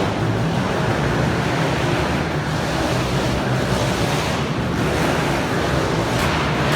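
Small motocross bikes running on an indoor supercross track, heard as a steady, dense wash of engine noise.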